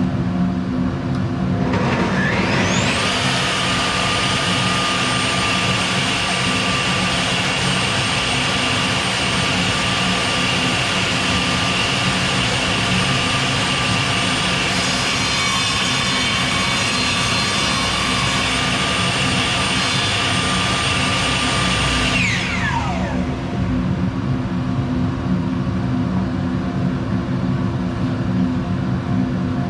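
Bosch GTS 10 XC table saw switched on about two seconds in: its motor whine rises quickly to full speed and runs steadily, growing rougher about halfway through. After about twenty seconds it is switched off and winds down, over a steady low hum heard throughout.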